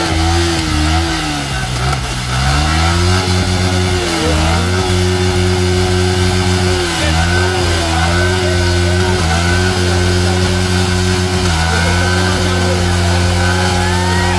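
Motorcycle engine revved hard and held at high revs, dropping back briefly every two or three seconds before climbing again, as a biker does a burnout in the water.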